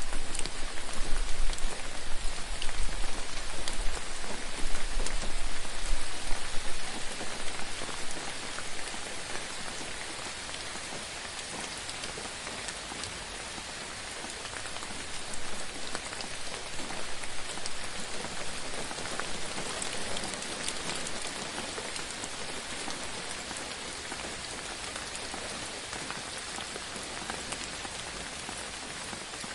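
Steady rain falling and pattering on a surface, a dense even hiss with fine drop ticks. A low rumble runs under it for about the first seven seconds, then the rain continues more evenly and a little quieter.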